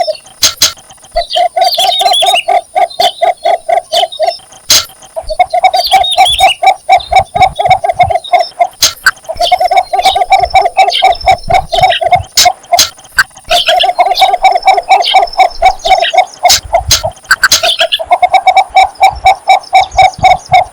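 Cinnamon bittern giving its advertising call to attract a mate: rapid series of low, evenly pulsed notes, repeated in about five bouts of three to four seconds each with short pauses between.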